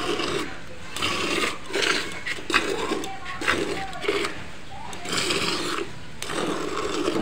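Milk squirting into a pail under hand-milking strokes, a short hissing squirt about once a second. This is the stripping at the end of milking, with the udder nearly empty.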